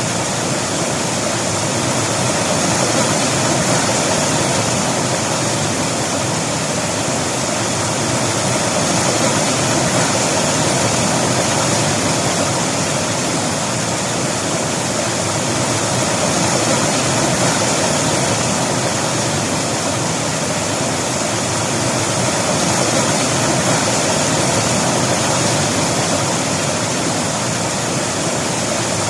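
River water flowing steadily over rocks, a constant loud rush that swells and eases gently every few seconds.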